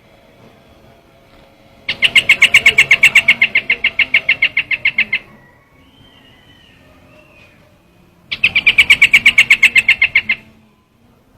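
Bird-lure recording of the trao trảo bird: two runs of rapid, evenly repeated chattering notes, about eight a second, the first about 2 s in lasting some three seconds, the second near the end lasting about two, with faint calls between.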